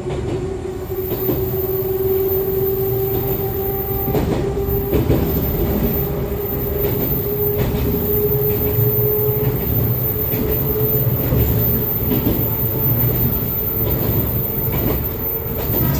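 Interior running sound of an Echizen Railway MC6101-series electric railcar with MT54 DC series-wound traction motors, in the car the uploader labels as an odd-noise car. A motor-and-gear whine rises slowly in pitch over the first several seconds as the car picks up speed, then fades into the steady rumble of the wheels, with occasional clacks over rail joints.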